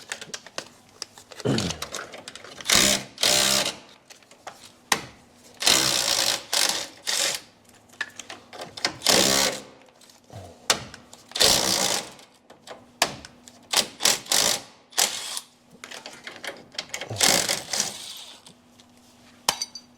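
Ratchet and socket clicking in repeated short bursts, with metal clinks, as bolts are worked loose from a car's front end.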